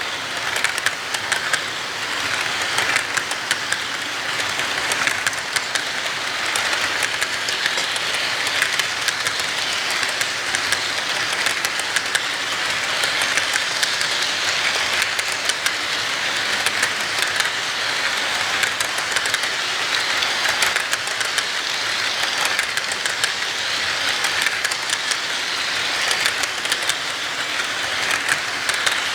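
Train running along a track: a steady rolling noise with rapid clicking of wheels over the rails.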